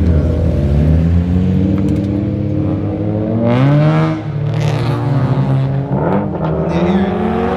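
Car engine accelerating, its note climbing and falling several times.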